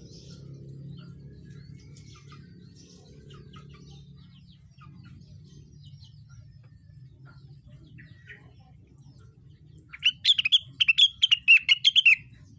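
Rengganis songbird singing: faint scattered chirps, then near the end a loud, rapid run of about a dozen repeated high notes lasting around two seconds.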